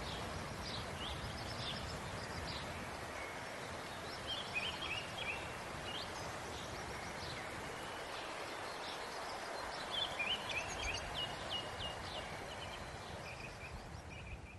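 Small birds chirping over a steady outdoor background hiss, with flurries of quick, high chirps about four seconds in and again around ten seconds.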